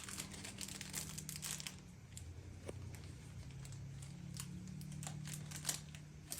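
Plastic packaging bag crinkling and rustling as it is handled and rummaged through, with irregular crackles throughout.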